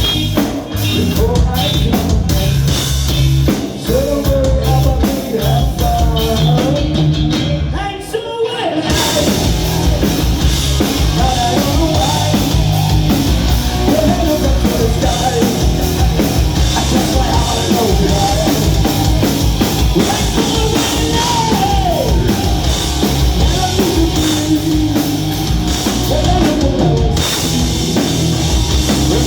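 Rock music with a drum kit and a singing voice, with a brief drop about eight seconds in before the full band comes back.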